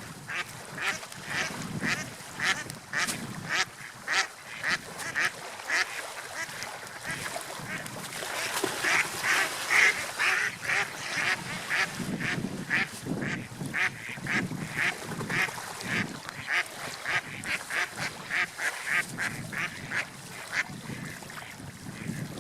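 Gulls calling in series of short, repeated cries, about two a second, louder and more crowded around the middle, over a steady hiss of wind and waves.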